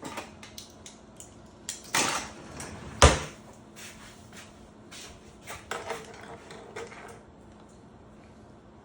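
Kitchen utensils clinking and clattering as measuring spoons are fetched, with a longer clatter about two seconds in and a single sharp knock, the loudest sound, about a second later. A few more light clinks follow before it goes quiet.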